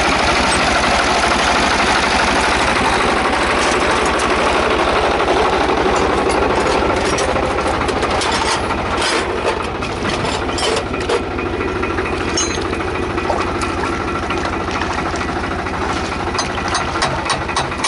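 Fiat DT 45-66 tractor's three-cylinder Iveco diesel engine running with a steady, even pulse. A heavier rush of noise fades out after about three seconds, and scattered sharp clicks and knocks come through from about four seconds in.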